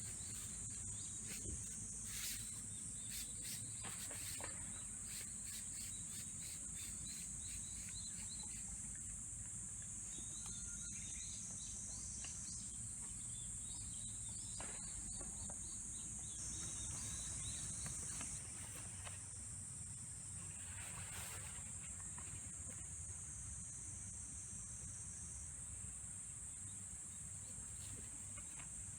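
Insects shrilling in a steady, high, unbroken chorus, with scattered light ticks and a low rumble underneath.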